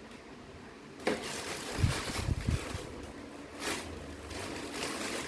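Handling noises of the unboxed monitor and its parts: a sudden rustle about a second in, a few low bumps, then continuing rustling.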